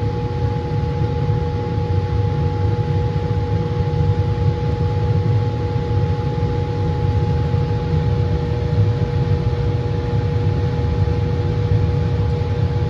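Laminar flow hood's blower running steadily, a little roaring rush of air with a steady hum.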